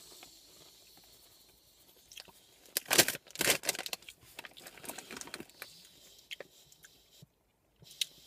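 A person biting into and chewing Andy Capp's Hot Fries, thin corn-and-potato fries. A few loud crunches come about three seconds in, then smaller crunches as the chewing goes on.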